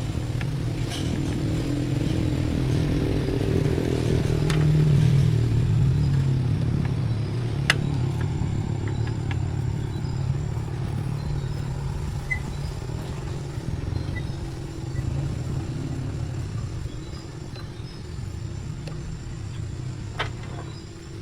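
A motor vehicle engine running, growing louder about five seconds in and then slowly fading away, with a few sharp clicks.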